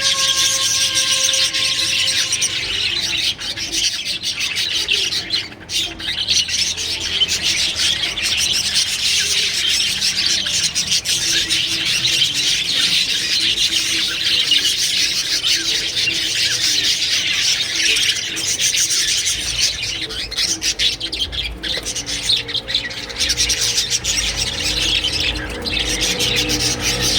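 A crowd of small birds chirping and chattering continuously, many calls overlapping into a dense, high-pitched twittering.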